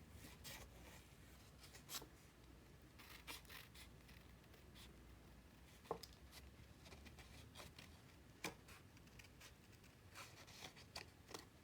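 Small scissors snipping cardstock in short, irregular cuts while fussy-cutting a stamped image by hand: faint scattered snips and clicks, a couple of them sharper.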